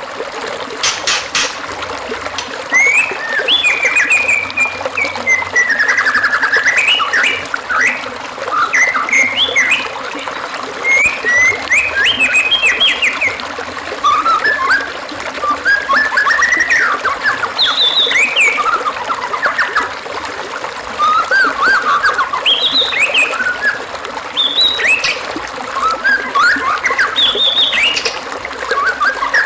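Songbird song used for training a caged bird: quick, varied whistles and chattering phrases in bouts of a few seconds, over a steady hiss like trickling water.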